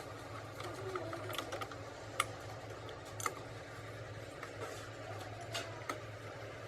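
A few light, scattered metallic clicks and taps, as of small pump parts being handled and set down on a workbench, over a steady low hum.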